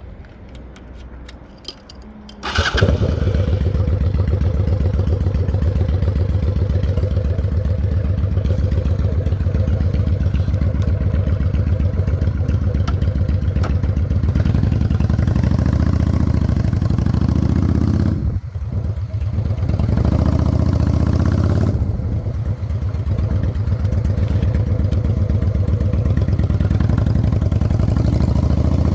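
Honda Shadow 600 V-twin motorcycle engine: a rapid clicking for about two seconds, then the engine fires about two and a half seconds in and runs loud and steady, dipping briefly once around eighteen seconds in.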